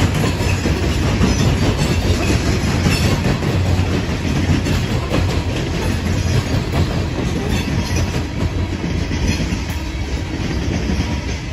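Loaded coal hopper cars of a freight train rolling past in a steady rumble, wheels clacking over the track. It eases slightly as the last car goes by near the end.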